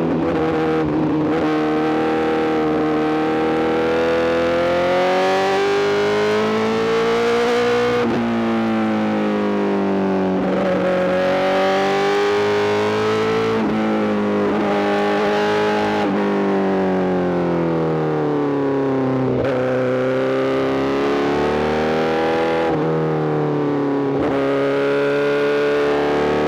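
Honda CBR1000RR-R SP inline-four engine running through an Arrow GP full exhaust system under way. The revs rise and fall repeatedly, with abrupt breaks in pitch every few seconds as it shifts gear.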